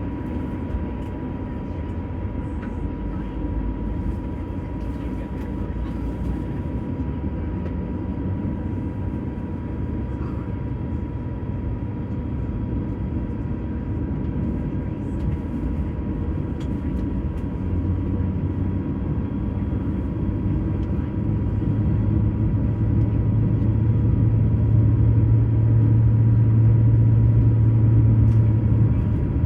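Airbus A350-1000 cabin noise with its Rolls-Royce Trent XWB engines running: a steady low rumble with a thin steady tone. A low hum comes in about two-thirds of the way through and grows louder as engine power rises.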